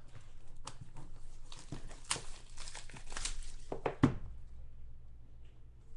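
Packaging of a trading-card box being torn open, with crinkling and tearing for about four seconds, then a single knock, and quieter after that.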